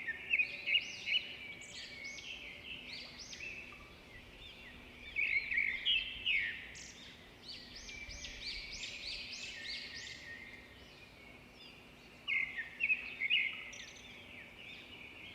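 Small birds chirping and twittering in rapid runs of short arched notes, coming in bursts at the start, around five to seven seconds in, and again about twelve seconds in.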